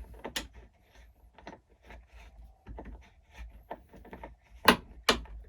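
Small clicks, scrapes and rubbing of RC truck wheel parts being handled as a wheel hex is worked onto the axle, with two sharp knocks near the end. The hex is sticking in place.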